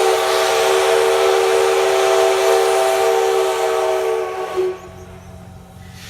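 Steam locomotive whistle of the SL Yamaguchi train blowing one long chord of several tones over a hiss of steam, cutting off suddenly about four and a half seconds in.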